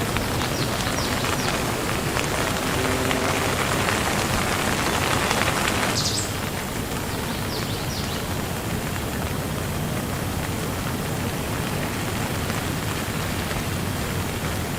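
Steady rain falling and pattering on surfaces; it eases slightly about six seconds in. A few short high chirps come through the rain.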